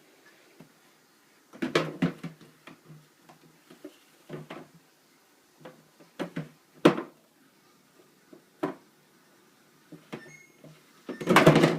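Bottles and jars being pulled from and knocked against refrigerator door shelves: irregular knocks and clunks, with a louder clatter just before the end. Near the end the refrigerator's door-open alarm starts to beep faintly, because the door has been left open too long.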